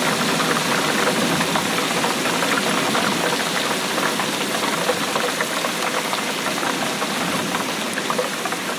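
Steady rainfall: an even hiss of falling rain, dotted with many small hits of single drops.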